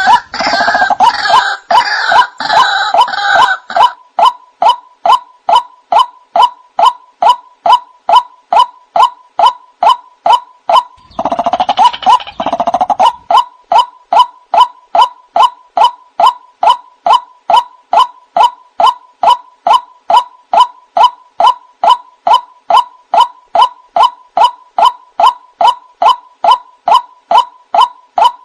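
White-breasted waterhen calling: a long run of evenly repeated nasal "kwak" notes, about two and a half a second. Busier overlapping calls join in during the first few seconds and again briefly around the middle.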